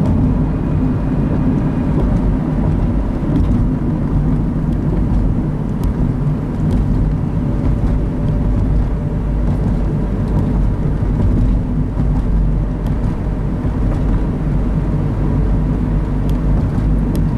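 Steady driving noise of a car at road speed, heard from inside the cabin: an even low rumble of engine and tyres on the road.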